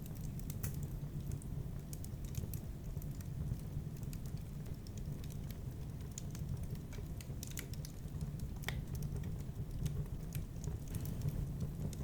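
Wood fire burning in a fireplace, crackling: irregular sharp pops and snaps over a steady low rumble.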